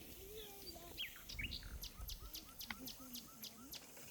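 A songbird singing: a few scattered chirps, then from about two seconds in a quick run of about eight high, steeply falling whistled notes, a little over three a second.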